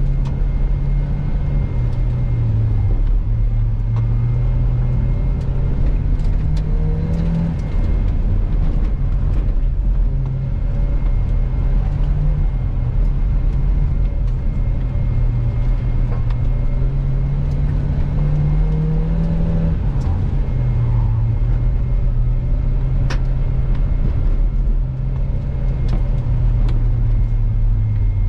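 A 1996 Toyota Tercel's four-cylinder engine heard from inside the cabin during a rallycross run. The engine climbs in pitch twice, each climb ending in a sudden drop, over steady tyre and road rumble, with scattered sharp clicks, one louder near the end.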